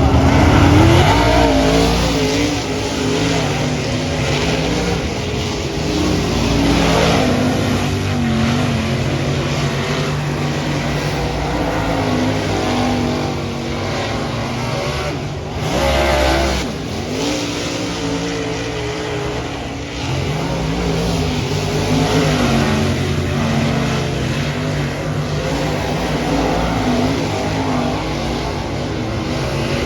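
A dirt modified race car's small engine running hard at racing speed, its pitch rising and falling as the throttle is opened and lifted, lap after lap.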